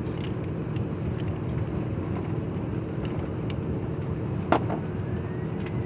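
Steady road and engine noise inside a moving truck's cab, with a few light clicks and one sharper clink about four and a half seconds in.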